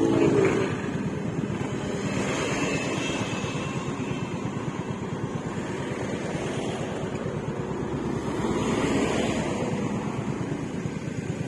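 Yamaha Mio Gravis scooter's single-cylinder engine running through an Akrapovic exhaust with silencer while riding at a steady pace, with wind rushing over the microphone.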